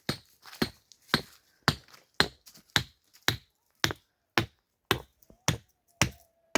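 A steady series of sharp knocks, about two a second, like repeated striking or chopping.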